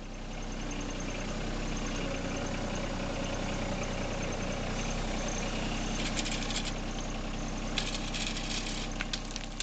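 Engine of a gravel-hauling machine running steadily, with two short rattling, scraping bursts about six and eight seconds in.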